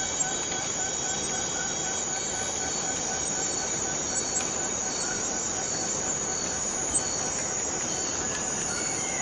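Cicadas in a forest chorus: a steady high-pitched buzz, with fainter rapidly pulsing lower tones underneath.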